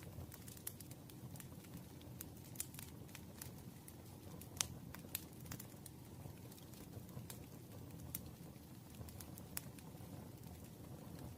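Campfire crackling: a steady low rumble of burning wood with scattered sharp pops and snaps, the strongest about four and a half seconds in.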